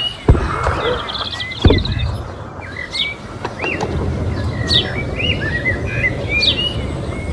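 Small birds chirping and twittering again and again. Two sharp knocks, about a third of a second and just under two seconds in, are the loudest sounds, and a low rumbling noise runs underneath from about halfway through.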